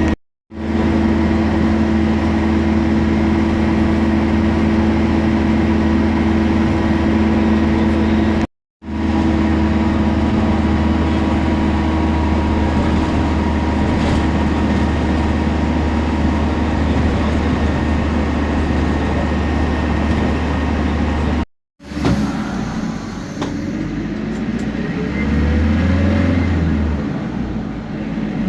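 Temsa Prestij SX midibus's diesel engine running steadily, broken by a few abrupt cuts. Near the end the bus pulls away under power, with a whine rising in pitch as it gathers speed.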